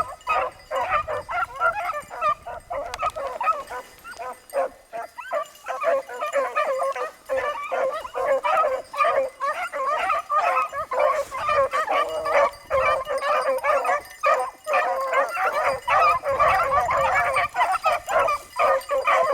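A pack of beagles baying on a rabbit's scent trail, many voices overlapping in a near-continuous chorus of bawls and chops, thinning briefly a few seconds in before building again.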